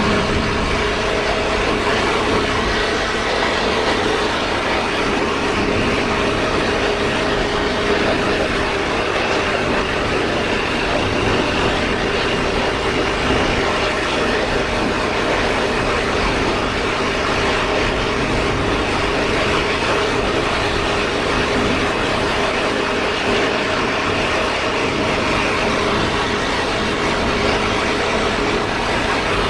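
Motorcycle riding at a steady cruising speed: a constant engine note with road and wind rush, holding even throughout with no change of pace.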